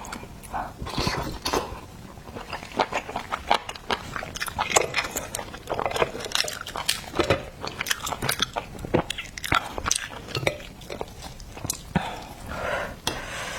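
Close-miked eating of oysters: wet chewing with an irregular run of mouth clicks and lip smacks.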